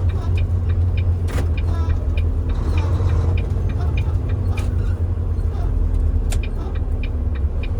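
Tractor-trailer's diesel engine and road noise heard inside the cab: a steady low rumble while driving, with scattered sharp clicks and rattles.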